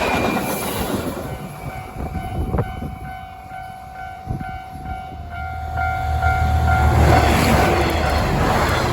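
Level crossing warning bell ringing steadily as trains pass through the crossing at speed. A train's rush fades away early, and a deep rumble and rising rush of another train build from about five seconds in.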